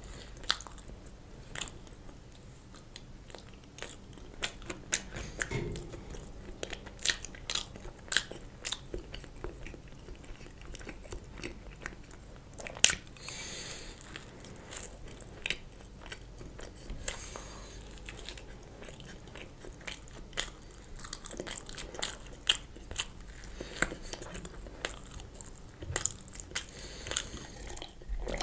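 Close-miked eating of toasted bread topped with melted cheese: steady chewing with wet mouth sounds and many short crunchy bites. The loudest crunch comes about thirteen seconds in.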